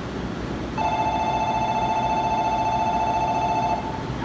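Electronic station departure bell on the platform ringing steadily for about three seconds, two close pitches warbling together, then cutting off: the signal that the train is about to leave.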